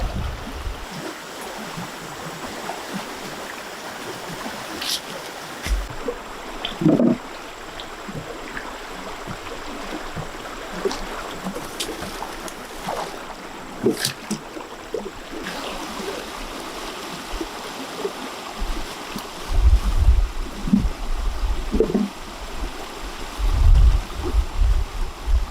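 Steady running water, with scattered short knocks and taps throughout and a few low thuds near the end.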